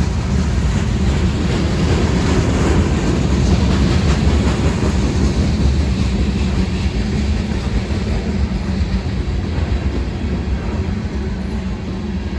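Mixed freight train rolling past: a steady rumble of steel wheels on rail with some clickety-clack. It is loudest a few seconds in and eases off slightly near the end.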